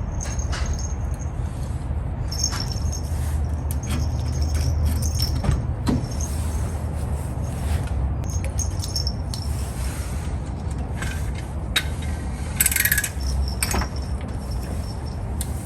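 Toyota Land Cruiser 60 on the move, heard from inside the cabin: a steady low engine and road rumble, with small rattles and squeaks from the interior.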